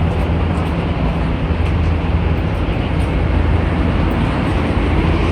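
East Rail line R-train electric multiple unit running as it pulls out of the platform: a steady low hum over a broad rumble.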